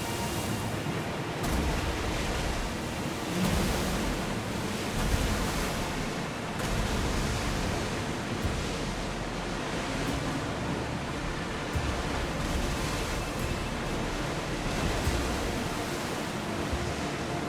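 Sea waves washing, with wind: a steady rush that swells and eases every few seconds.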